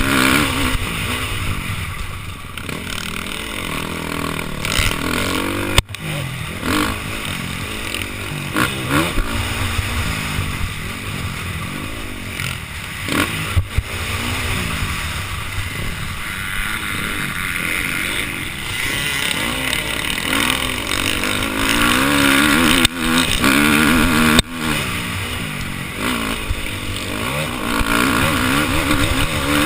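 Motocross dirt bike engine revving up and falling off again and again as it is ridden around the track, heard from the rider's helmet camera, with a couple of brief sharp cut-outs.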